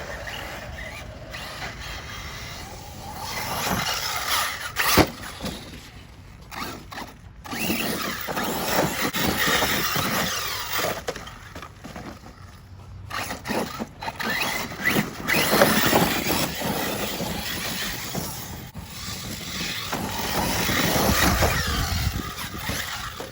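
Arrma 6S RC car with Spektrum brushless electronics being driven hard: the motor whine and tyre squeal swell and fade with the throttle, and there is a sharp knock about five seconds in.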